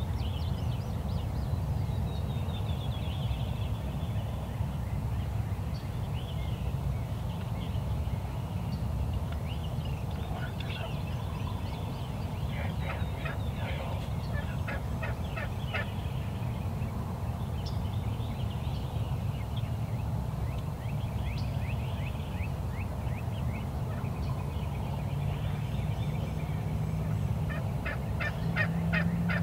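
Wild turkey gobbling, a rapid rattling call repeated several times, over a steady low rumble.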